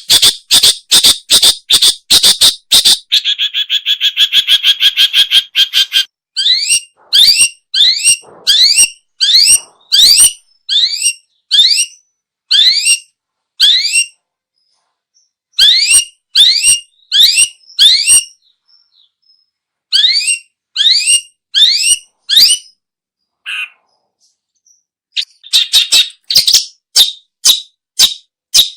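Long-tailed shrike calling: a fast series of harsh notes, then a rattling trill about three seconds in. After that come repeated rising chirps, about one or two a second with a couple of pauses, and another fast harsh series near the end.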